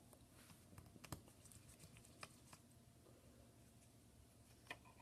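Near silence, broken by a few faint, sharp clicks of small repair tools against the iPhone 6's ear speaker shield and its tiny screws.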